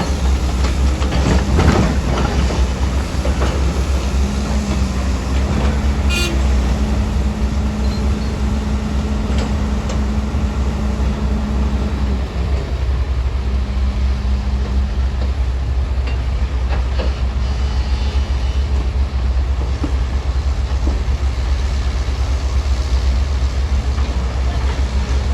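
Heavy diesel earthmoving machinery running steadily with a deep rumble. There are a few knocks a second or two in, and a steady whine through the middle part.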